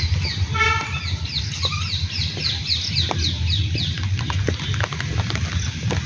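A bird calling in a quick run of short falling chirps, about four a second, after one short pitched call just before it. Under it runs a steady low rumble with scattered sharp ticks, as of wind and rain on the microphone.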